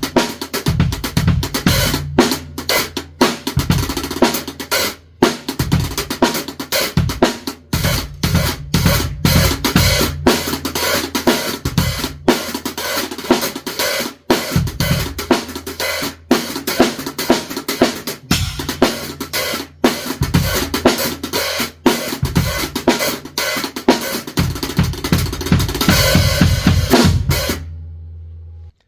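Drum kit playing a steady groove of kick, snare, hi-hat and cymbals, with held low bass notes underneath. Near the end a cymbal wash rings and fades, then the sound cuts off.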